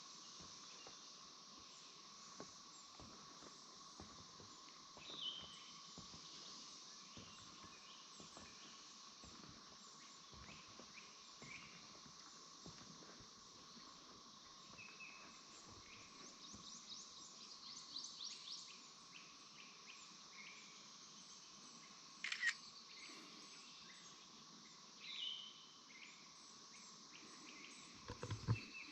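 Faint swamp ambience: a steady chorus of insects with a few bird calls. A short falling call comes about five seconds in and again near the end, with a fast run of notes midway. Soft irregular footsteps on the wooden boardwalk and one sharp click run underneath.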